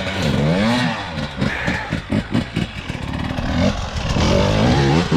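Dirt bike engine revving, its pitch rising and falling, with a quick run of throttle blips in the middle.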